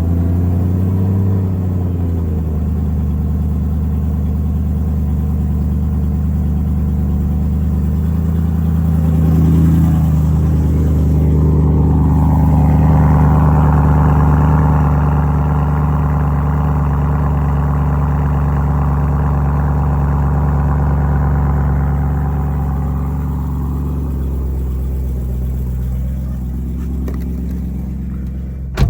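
E90 BMW M3's 4.0-litre V8 engine running steadily, with brief rises in pitch near the start and about ten seconds in, and a louder stretch in the middle that eases off about 24 seconds in.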